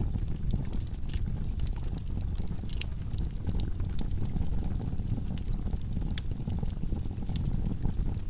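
Wood logs burning in a fireplace: a steady low rumble of the flames with frequent sharp crackles and pops scattered irregularly.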